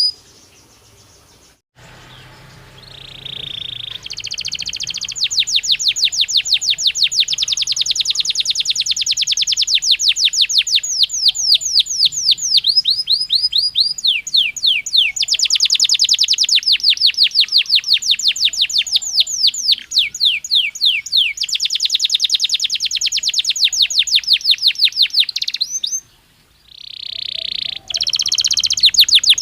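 Belgian canary singing a long song made of rapid trills, each a fast run of repeated high notes, switching between rolls of different speeds. The song starts after a short quiet moment and breaks off briefly near the end before resuming.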